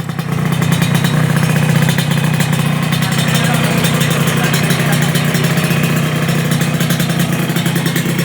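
Motorcycle engine idling steadily through an aftermarket lobster-style exhaust fitted with a silencer insert, a fast, even run of exhaust pulses with a low hum.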